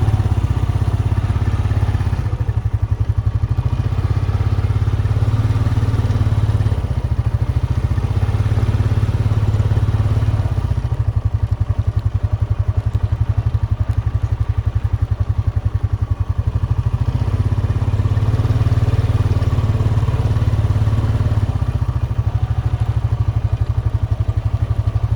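Four-wheeler ATV's single-cylinder engine running under way, its low note swelling and easing several times as the throttle changes.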